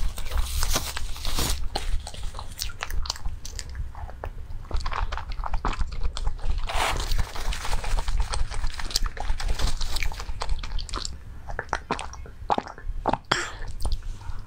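Close-miked eating sounds: chewing and biting mouthfuls of soft baked rolls, with plastic wrapping and plastic gloves crinkling. Near the end, sips from a small plastic cup.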